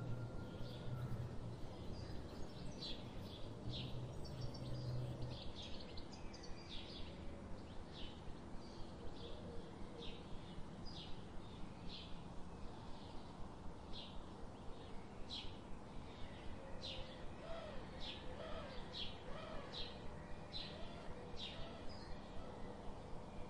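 A small bird chirping over and over, short high chirps a couple of times a second, over a faint low background hum.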